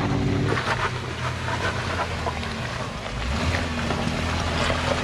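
Jeep Wrangler's engine running at low revs as it crawls slowly over roots and rock. The note shifts a little about three seconds in, with scattered small knocks.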